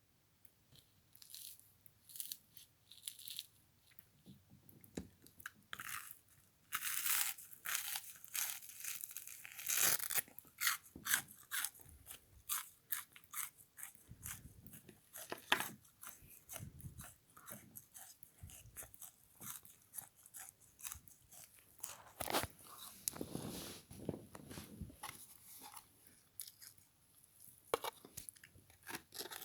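Frozen bath sponge scrubber being bitten and chewed: irregular crisp crunches and crackles, coming thickest and loudest about a third of the way in.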